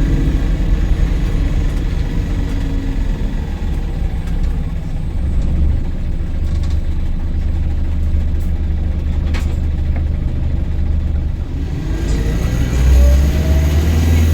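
Volvo B5LH diesel-electric hybrid double-decker bus heard from inside while under way. Its engine runs with a deep rumble that grows about five seconds in, and a rising whine near the end as it accelerates.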